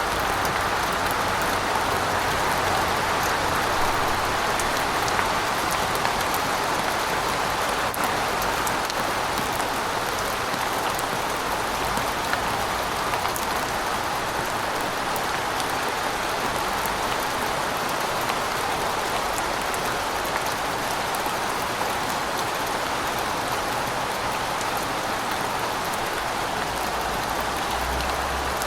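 Steady rain falling, with many fine drops ticking on a hard surface.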